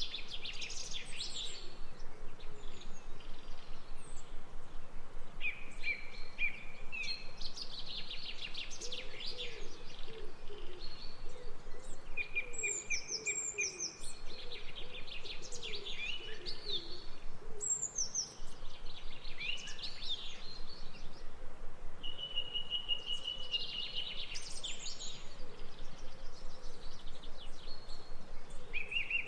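Songbirds singing outdoors: high trilled and whistled phrases repeat every few seconds, with a lower wavering call underneath through the middle, over a steady background hiss.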